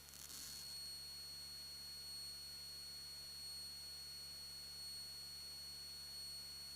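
Faint steady hiss from the aircraft's intercom and radio audio feed, with a thin steady high whine in it, between radio transmissions. A short burst of static right at the start, after which the hiss sits slightly louder.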